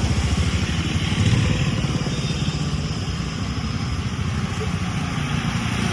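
A motorbike engine running steadily close by, over the hiss of road traffic.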